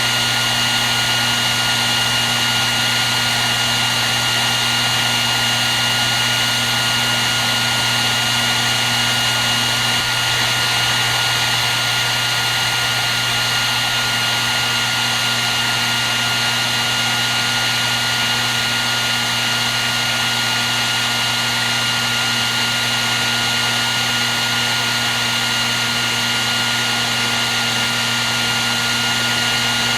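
Hair dryer running steadily: an even rush of air with a constant high whine and a low hum underneath.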